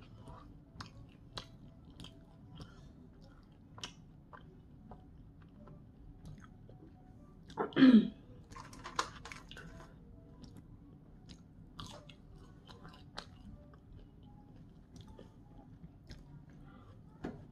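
A person chewing crispy chicken tenders and seasoned curly fries, with scattered soft crunches and mouth clicks. About eight seconds in comes a short hum that falls in pitch, the loudest sound.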